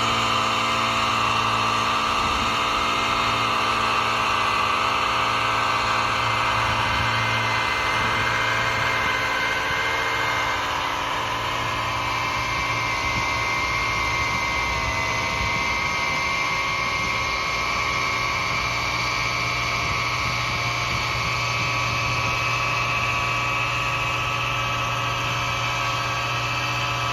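An engine of construction machinery idling steadily at an even speed, dipping slightly in level about eleven seconds in.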